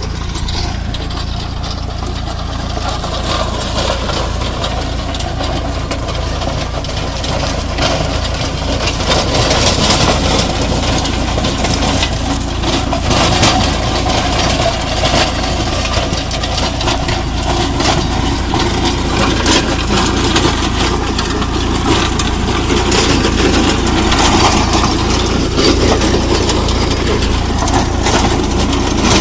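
Mini tractor engine running steadily while driving a rotavator, with rapid clattering and rattling on top. It grows a little louder about eight seconds in and then holds.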